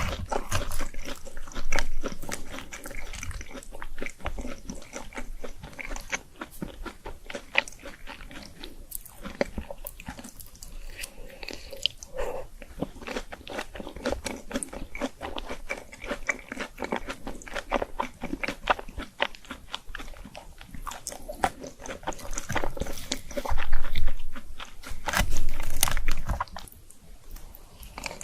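Close-miked eating: crunchy food bitten and chewed in quick, dense crunches throughout, louder near the end.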